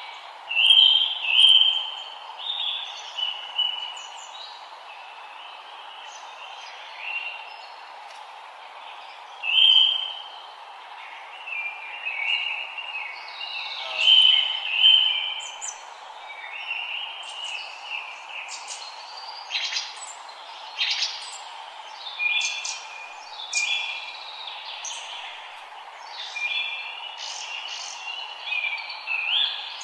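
Forest birds singing and chirping, with short phrases and calls that overlap and repeat throughout, over a steady background hiss.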